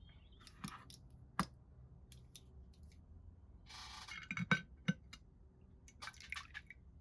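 Small hard clicks and taps of tools and small metal parts being handled on a workbench, with a short scraping rustle just before the sharpest knocks a little after the middle.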